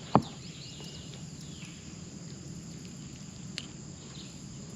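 Crickets and other insects chirping steadily in the background. A short, sharp sound just after the start is the loudest thing, with a faint click about three and a half seconds in.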